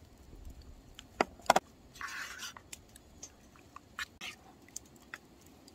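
Handling of food containers and utensils while seasoning sea squirt: scattered sharp clicks and taps, loudest a quick double knock about a second and a half in, a brief scraping rustle at about two seconds, and a few more taps around four seconds.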